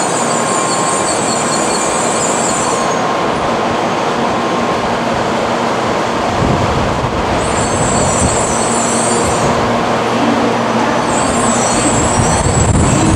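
Shinkansen train running through the station at reduced speed: a steady loud rush of wheels on rail, with a high hiss that comes and goes three times and a deeper rumble building from about halfway.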